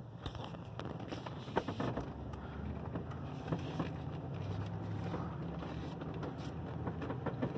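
Old pickup truck's engine running at low speed in four-wheel drive, a steady low hum with scattered knocks and rattles.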